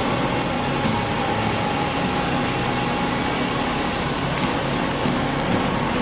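Steady mechanical whirring with a rushing hiss and a faint steady hum: the cartoon sound effect of a cement mixer truck running as it pours concrete down its chute.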